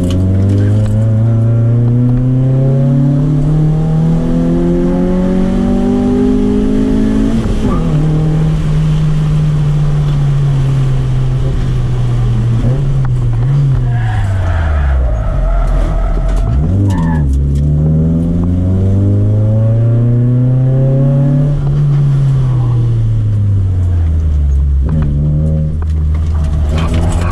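Toyota Corolla AE111's 4A-FE four-cylinder engine heard from inside the cabin under full throttle. The pitch climbs, drops sharply at each shift or lift for a corner, then climbs again. A short tyre squeal comes about halfway through as the car corners.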